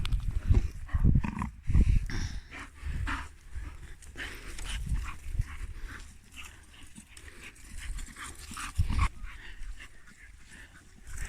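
Dogs moving about and making small sounds, with irregular low thumps, heaviest in the first few seconds.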